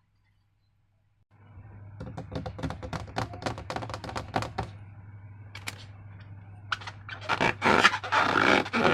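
Slime and rubber balloons being handled: a quick run of sticky crackling clicks, then after a short pause louder, denser squelching rustles.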